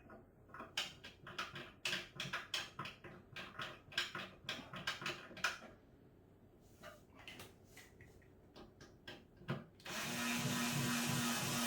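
A run of sharp clicks and rattles of hard parts being handled during assembly. Near the end a small power tool's electric motor starts and runs with a steady buzz.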